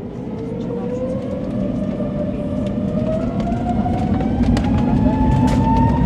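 Airbus A321neo's turbofan engines spooling up to takeoff power: a smooth whine rising steadily in pitch and growing louder over a low rumble, with scattered knocks.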